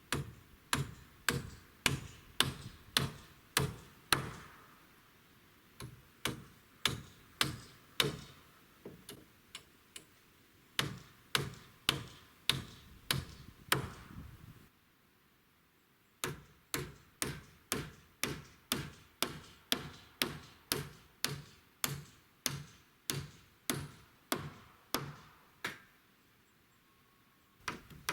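Hammer blows driving nails into wood, in quick, even runs of about two to three strikes a second, broken by a few short pauses.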